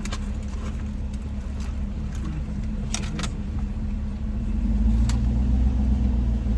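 Cabin sound of a 2021 Mercedes-AMG GLE 53 Coupe with its turbocharged inline-six running: a steady low engine and road hum that grows louder about four and a half seconds in, with a couple of light clicks about three seconds in.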